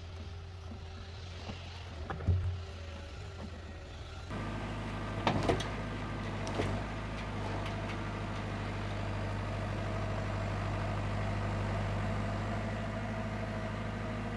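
Forestry forwarder's diesel engine running steadily, with a few sharp knocks and a thud of the grapple and logs. About four seconds in, the engine sound switches abruptly to a louder, steadier drone.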